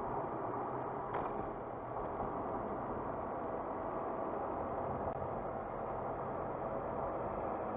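A car driving along a road: steady engine and tyre noise, with a brief sharp sound about a second in.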